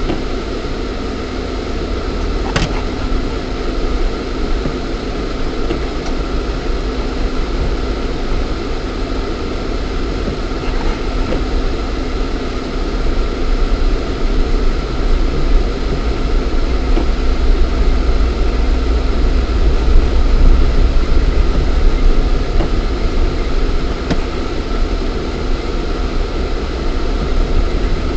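Lada Niva 4x4 1.7i's four-cylinder petrol engine and drivetrain running with a steady low rumble, heard from inside the cabin while driving off-road. There is one sharp click about two and a half seconds in, and the sound grows a little louder around the middle.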